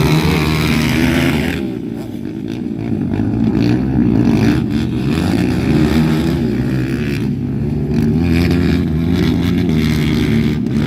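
Several motocross dirt bikes running together, idling and revving unevenly, with one rev rising sharply near the start.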